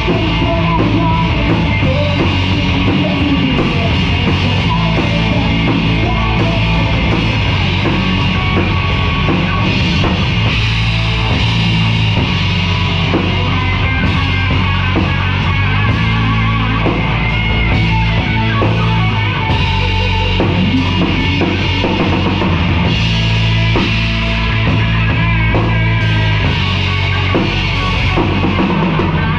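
Live rock band playing loudly: drum kit, bass and electric guitar.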